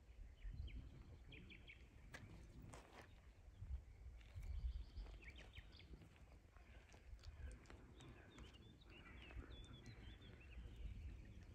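Faint outdoor ambience: scattered small-bird chirps and twitters over a low wind rumble on the microphone.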